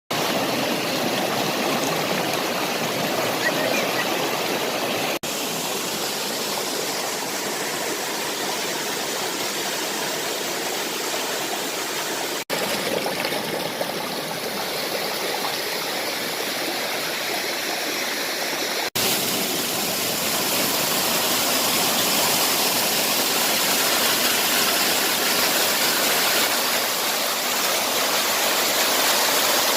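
Waterfall: a steady rush of falling water. It is broken three times by an instant's dropout and is slightly louder after the last one, about two-thirds of the way through.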